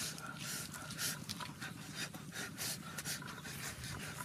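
People chewing and smacking their lips as they eat roasted pork, in quick irregular wet smacks with breaths between.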